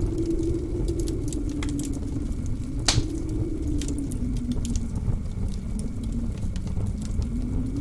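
Blizzard wind howling in a deep rumble whose pitch slowly wavers and sinks, over a wood fire crackling with scattered sharp snaps and one louder pop about three seconds in.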